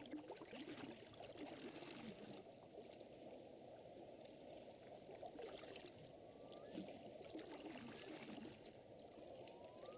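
Faint water lapping and trickling, a soft steady wash with small gurgles, with light crackling ticks over it and a few faint short chirps near the end.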